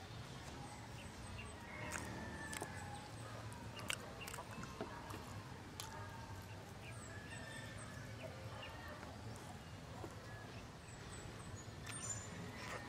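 A person chewing tender pork rib asado and rice, with wet mouth sounds and a few sharp smacks.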